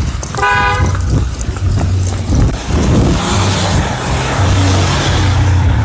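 City street traffic: a brief car horn beep about half a second in, over a steady low rumble. A vehicle passes with a rush of tyre noise around the middle.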